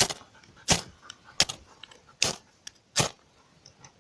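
Ferrocerium fire steel scraped hard with its striker five times, one quick rasping stroke about every three quarters of a second, throwing sparks at birch bark that won't catch, which they suspect is damp after rain.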